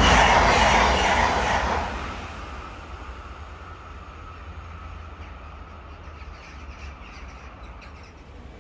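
Electric passenger train passing close by: a loud rush of noise that dies away about two seconds in, leaving a faint fading whine and a low rumble as it moves off.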